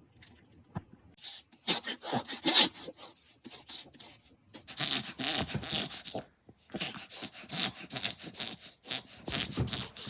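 Small dog's rapid, noisy snorting and honking breaths, coming in runs with short pauses between. This is the honking, snorting fit that reverse sneezing and tracheal collapse both produce.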